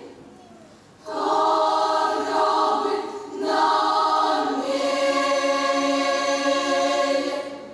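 Choir singing the closing held chords of a piece: after a short pause, one chord about a second in, a brief break, then a long final chord that cuts off near the end.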